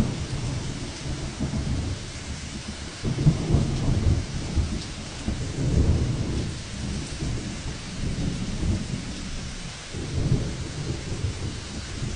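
Wind gusting against the microphone: low rumbling buffets that swell and fade several times over a steady hiss of wind.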